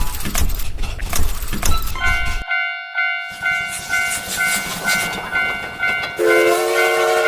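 Stock train sound effects. A train rumbles and clatters past, the sound cuts out for a moment, then a railroad-crossing signal dings rapidly over a steady whistle tone. A lower horn tone joins near the end.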